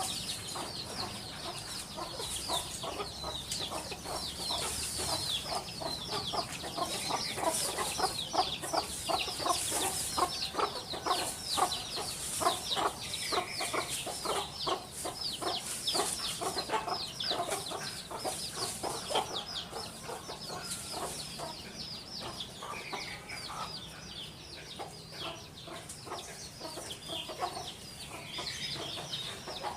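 Birds calling: a dense run of short, quickly repeated notes with many high chirps over them, loudest around eight to sixteen seconds in.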